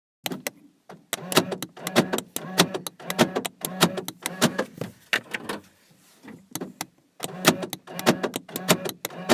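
Rapid runs of sharp clicking sounds, many a second, in bursts with short breaks and a low hum beneath them; the clicking lets up for about a second and a half around the middle.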